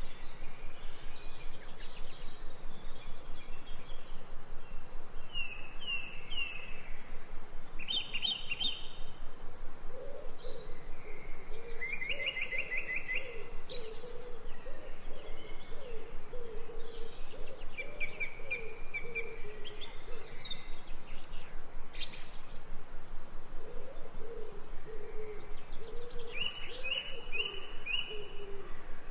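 Ambient birdsong: several songbirds chirping and trilling in short repeated phrases. A lower, wavering bird call runs underneath through the middle and again near the end.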